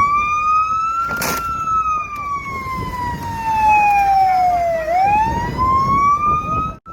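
Police car siren wailing: a slow rise, a long fall and a rise again, with a short burst of noise about a second in.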